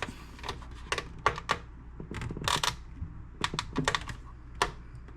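Scattered sharp clicks and light taps of small hard parts being handled on a stereo unit, a dozen or so at uneven spacing.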